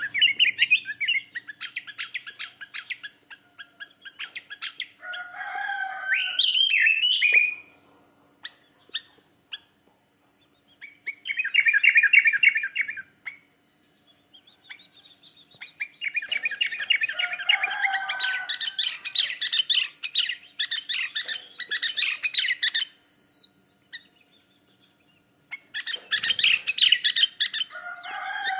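Sooty-headed bulbul (kutilang) in full song: bouts of quick, chirpy phrases, each lasting one to several seconds, separated by pauses of a couple of seconds.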